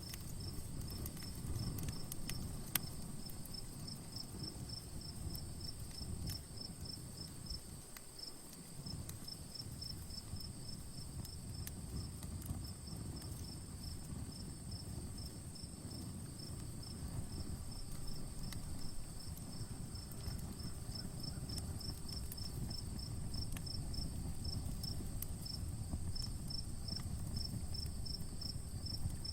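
Crickets chirping in a steady, even rhythm, with a continuous high insect trill, over the low hiss and scattered small crackles of an outdoor campfire.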